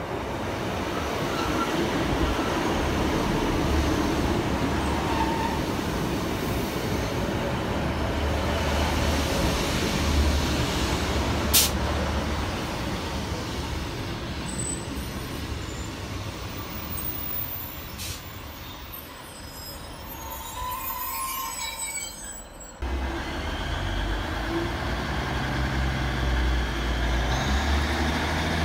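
A diesel multiple unit runs in under a bridge, its engine and wheels rumbling on the rails, with two short sharp metallic sounds from the wheels or brakes about halfway and two-thirds of the way through. After a sudden cut near the end, a steady low diesel hum from a unit standing at the platform.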